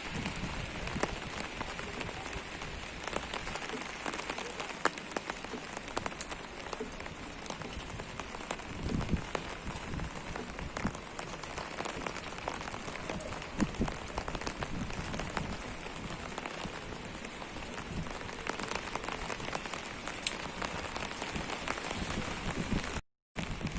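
Steady rain falling, with many separate drops ticking on hard surfaces over an even hiss.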